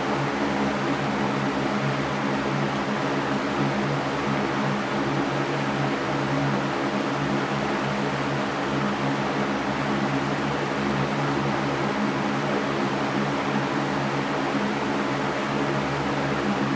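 Electric fan running steadily: an even whooshing hiss of moving air with a low motor hum underneath.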